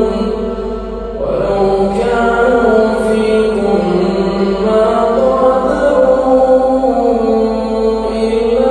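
A man's voice reciting the Quran in melodic chant, holding long notes that slide slowly up and down in pitch.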